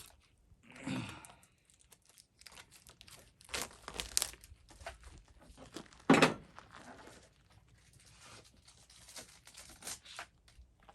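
Packaging of a new chainsaw chain being torn and crinkled open, in irregular crackling bursts and clicks, with one louder knock about six seconds in.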